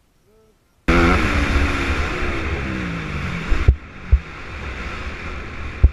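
Dirt bike engine running with its revs falling, under heavy wind noise buffeting the microphone; it cuts in abruptly about a second in after near silence and eases off a little later.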